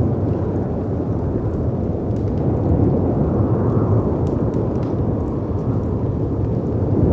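Storm ambience: a deep, steady rush of wind and sea surf with slow swells, and a few faint crackles and pops from a wood fire.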